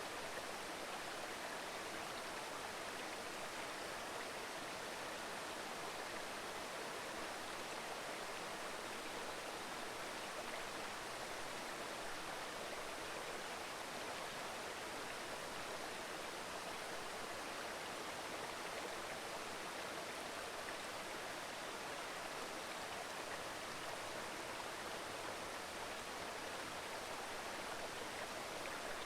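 Mountain stream babbling and rushing steadily over rocks, an even rush of water with no distinct splashes.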